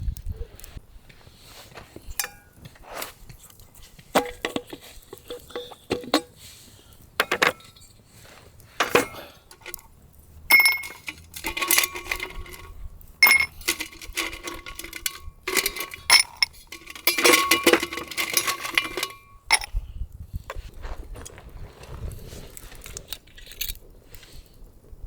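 Ice cubes and glassware clinking, many separate sharp clinks, some with a short glassy ring, as a glass is filled with ice for shochu on the rocks.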